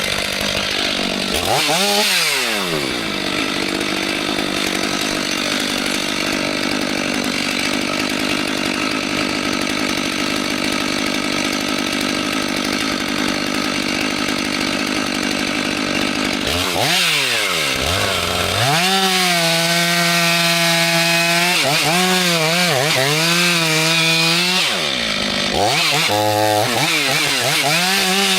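Chainsaw running at high revs and cutting into wood. Its engine pitch drops about two seconds in, then holds steady through the cut. From about two-thirds of the way in it sags repeatedly under load and picks back up.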